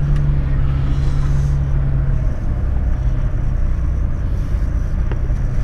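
Toyota LandCruiser 105 Series engine running steadily at low speed, heard from inside the cabin as it approaches a bog hole. The engine note drops a little about two seconds in.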